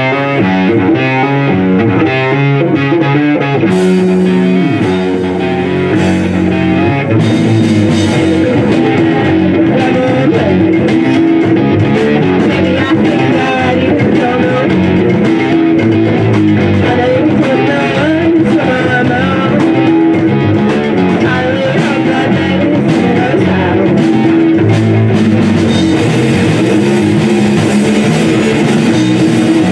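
Live rock band playing: guitar, bass and drum kit, the full band coming in after the first few seconds.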